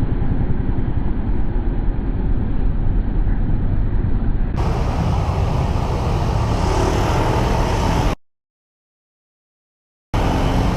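Steady riding noise from a motor scooter moving through traffic: wind rumble on the microphone over engine and road noise. Partway through the sound turns brighter, and near the end it cuts out to dead silence for about two seconds before resuming.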